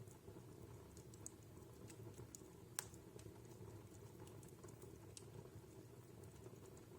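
Wood fire crackling in a fireplace: scattered small pops and clicks over a steady low hum of flames, with one sharper pop a little under three seconds in.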